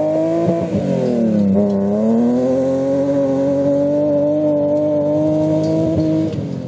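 Rally car engine running hard at high revs. Its pitch dips briefly about a second in, then climbs again and holds steady before falling away near the end.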